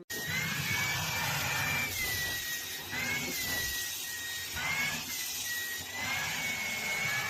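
A small motor running with a steady rushing noise and a high whine that wavers slightly up and down in pitch.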